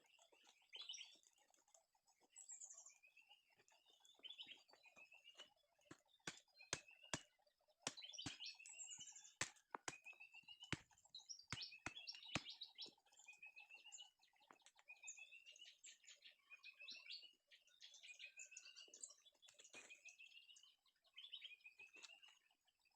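Small forest birds chirping, with short rising calls repeated again and again, and a scatter of sharp clicks in between, thickest in the middle.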